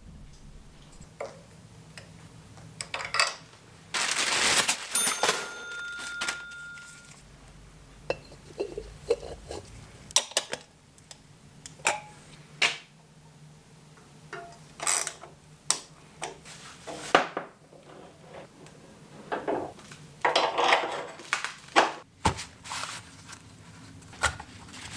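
Scattered metallic clinks and knocks of small metal parts and tools being handled, with two louder clattering stretches, one about four seconds in and one near twenty seconds.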